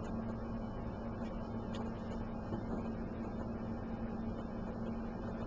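Steady low hum over faint background room noise, with one faint tick about two seconds in.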